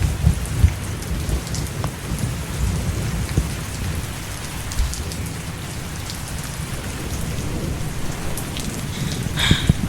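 Steady rain falling, a dense hiss flecked with fine drop ticks, over a low steady rumble.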